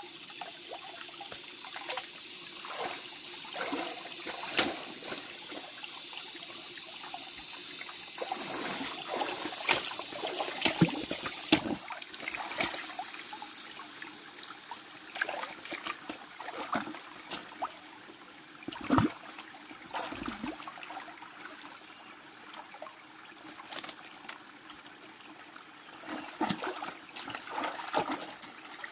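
Water trickling and splashing, with irregular knocks and clatters throughout.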